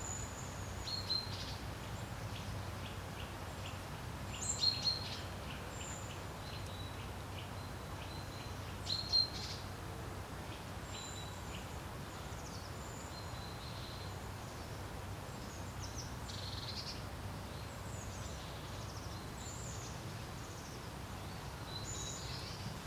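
Steady low wind noise by a lake, with small birds giving short, high chirps scattered throughout. The loudest chirps come about four to five seconds in and again around nine seconds in.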